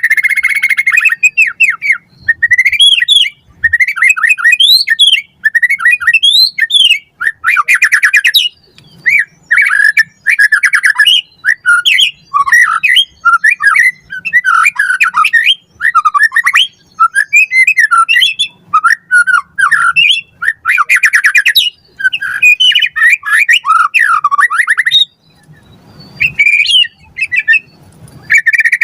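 White-rumped shama singing loud, fast, varied phrases of rising and falling whistles broken by rapid rattling trills, its song packed with mimicked phrases. The song pauses briefly about 25 seconds in.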